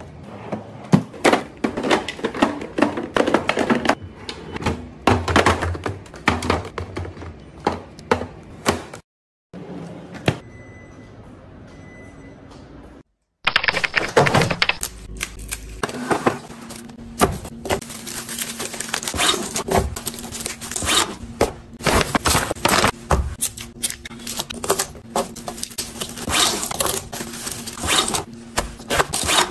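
Kitchen food-prep handling: a busy run of quick clicks, taps and knocks as food and containers are handled and packed, broken by two short edit cuts about nine and thirteen seconds in.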